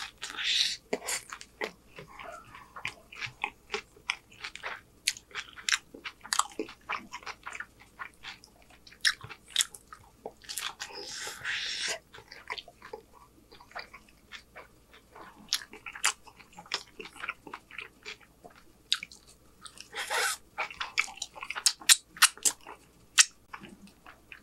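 Close-miked chewing and biting of soft chicken street tacos on corn tortillas: irregular wet mouth clicks and smacks, with a few louder, longer noisy bursts about eleven and twenty seconds in.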